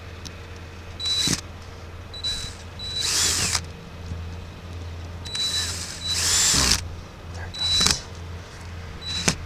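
Power drill driving self-tapping screws in about six short bursts, its motor whine shifting in pitch as the screws go in.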